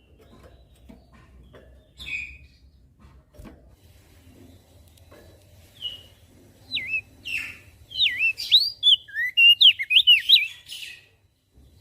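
Crested white-eye (opior jambul) singing: a few faint chips, then, from about halfway, a fast run of loud, sweeping up-and-down whistles that stops shortly before the end.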